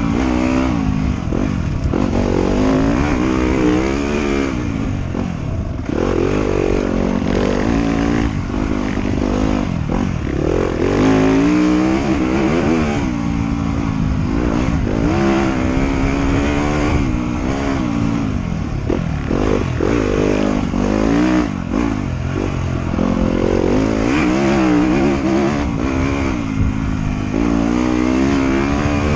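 Trail motorcycle engine running hard under way, its pitch climbing and dropping over and over as the throttle opens and closes.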